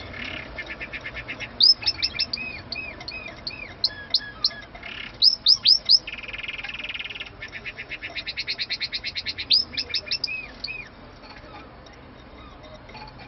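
Canary singing: runs of repeated chirped notes and fast trills that stop about eleven seconds in.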